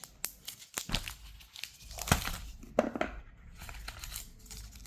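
Packaging being handled while the contents of an earbuds box are taken out: irregular crinkling and rustling with sharp clicks and knocks, loudest about two and three seconds in.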